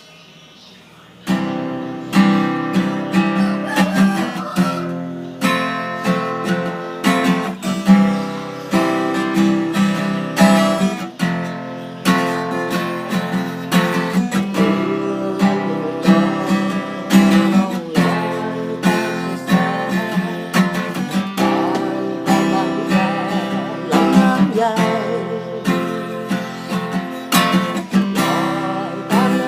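Acoustic guitar strumming chords in a steady rhythm, starting suddenly about a second in.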